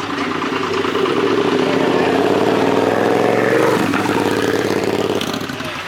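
Motorcycle engine running close by, its pitch rising and falling a little, loudest around the middle and then dropping off near the end.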